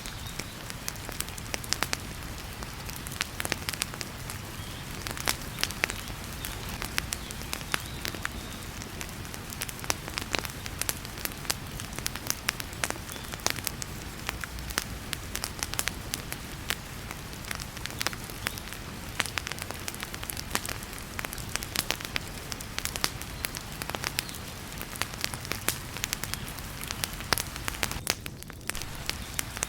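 Wood fire crackling in a fireplace, with frequent sharp pops and snaps, over a steady hiss of heavy rain.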